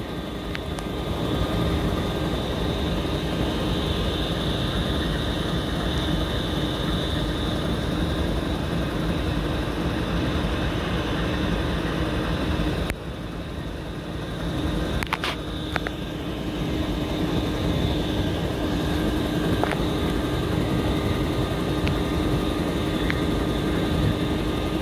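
Diesel locomotive (CSXT 156) idling: a steady low rumble with a constant hum, briefly quieter about halfway through.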